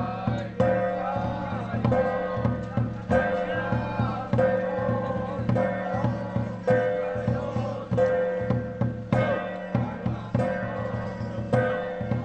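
Temple ritual music: a wavering melody over held tones, with frequent drum and percussion strikes.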